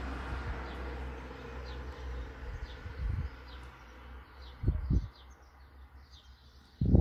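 A small bird chirps repeatedly, short high falling notes about two a second, over a low rumble that fades about halfway. Dull thumps from hands handling wiring come about three seconds in, twice a little later, and loudest at the very end.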